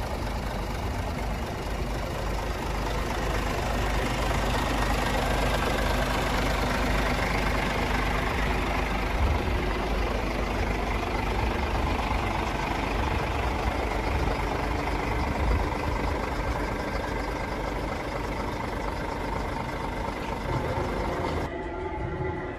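Scania R450 truck's diesel engine running steadily. The sound turns abruptly duller near the end.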